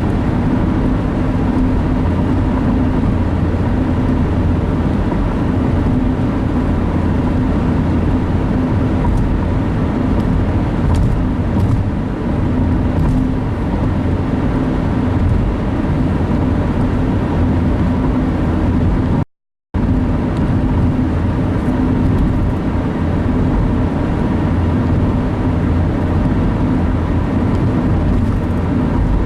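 Steady road and engine noise inside a moving car's cabin at driving speed, with a low hum. About two-thirds of the way through, the sound cuts out completely for a split second and then resumes.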